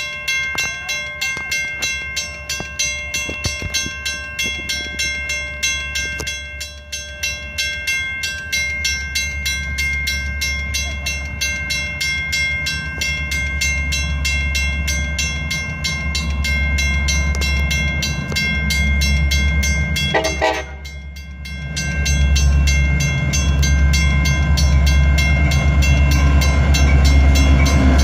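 A bell ringing in steady strokes as a Metra MP36PH-3S diesel locomotive approaches, with a short horn blast about twenty seconds in. The locomotive's 16-cylinder EMD diesel engine then rumbles loudly as it pulls alongside.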